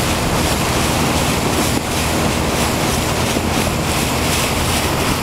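Steady, loud rush of wind noise on the microphone, with a low engine drone under it from a plane coming in to land on a lake.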